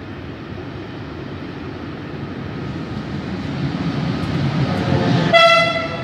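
SNCF class E436 (BB 36000) electric locomotive hauling a freight train of hopper wagons as it approaches, its rumble on the rails growing steadily louder. About a second before the end it gives one short horn blast.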